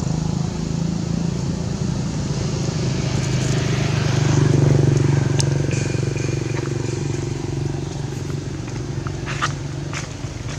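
An engine running steadily nearby, swelling louder about four seconds in and then easing off, with a few short clicks later on.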